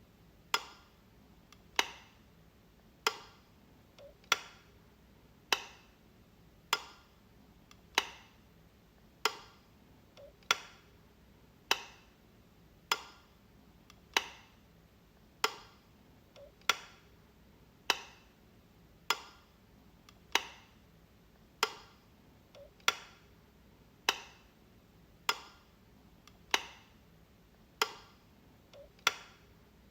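A wall light switch clicking over and over, one sharp click about every second and a quarter, now and then with a faint extra click just before.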